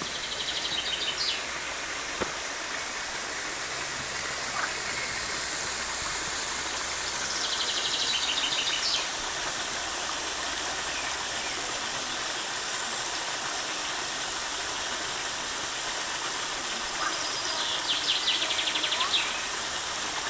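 Steady rush of flowing water, with a small bird singing a short, rapid trill three times over it.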